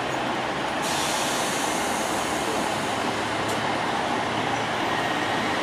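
Class 150 Sprinter diesel multiple unit running slowly into the platform: a steady rumble and hiss of engine and wheels on the rails, with a higher hiss joining about a second in.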